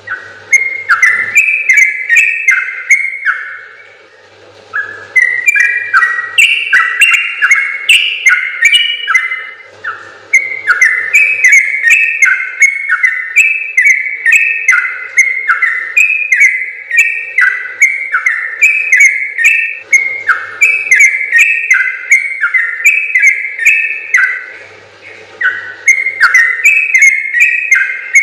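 Yellow-vented bulbul (trucukan) singing long, fast runs of bubbling whistled notes, each note sliding downward, in extended phrases with a few short breaks.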